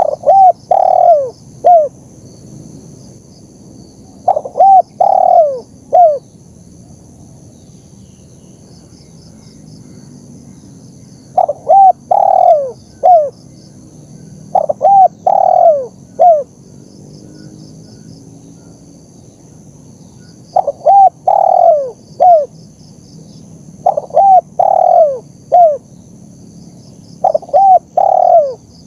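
Spotted dove (tekukur) cooing: about seven phrases of four or five coos each, with a louder drawn-out coo in the middle and pauses of a few seconds between phrases. Behind it is a faint steady high hiss with soft ticking.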